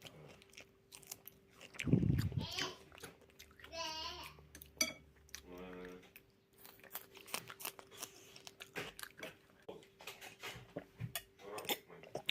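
Close-miked crunching and clicky mouth sounds, like chewing, with many small sharp clicks and a louder crunch about two seconds in. Two short pitched vocal sounds come around the middle, over a faint steady hum.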